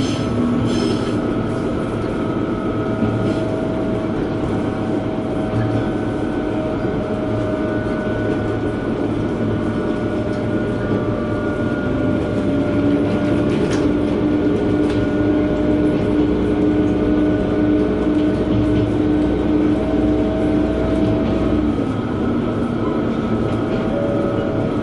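Diesel railcar running along the line, heard from inside the cabin: a steady rumble and rolling noise with a constant engine and transmission hum. About halfway through, one tone rises in pitch and holds as the engine pulls.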